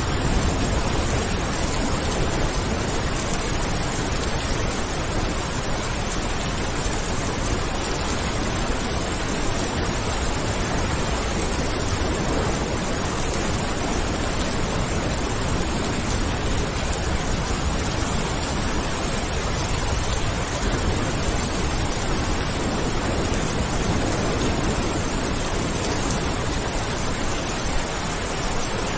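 Steady heavy rain: an even, unbroken hiss with a low rumble beneath it and no distinct thunderclap.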